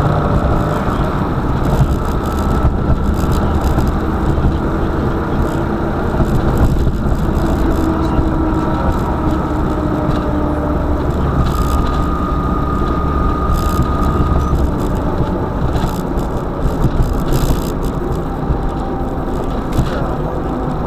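Car engine running with steady road noise while driving, with scattered short clicks and knocks.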